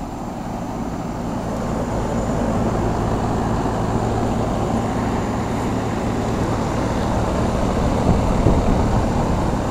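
Carrier central air-conditioner condensing units running: steady fan rush over a low compressor hum, growing louder over the first few seconds and then holding steady.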